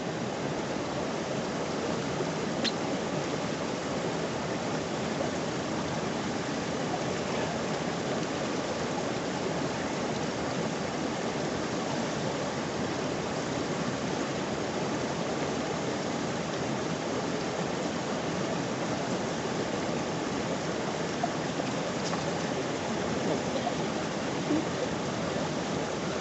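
Highland river running fast over stones close by: a steady, even rush of water with a couple of faint clicks.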